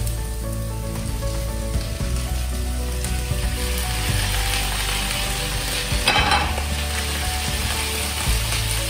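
Shrimp and browned onions sizzling in a hot frying pan as the shrimp are tipped in and stirred with a spatula. The sizzle thickens from about four seconds in, and there is a short, louder scrape about six seconds in.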